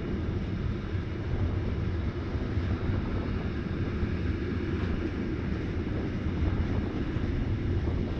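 Rhaetian Railway ABe 8/12 'Allegra' electric train running along the line: a steady low rumble of wheels on rails and running gear, with no sudden events.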